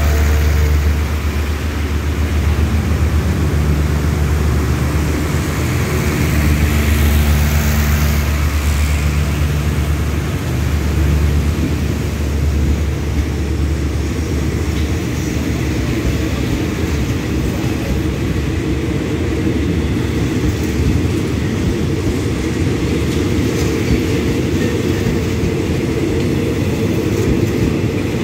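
Passenger train carriages rolling slowly along the platform. A deep, steady drone is strongest for the first dozen seconds or so, then gives way to an even rumble of wheels on the rails.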